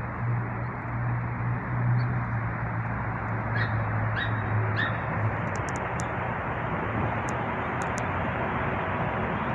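Steady rushing outdoor noise with a low hum that fades out about halfway, and three short bird calls about half a second apart near the middle.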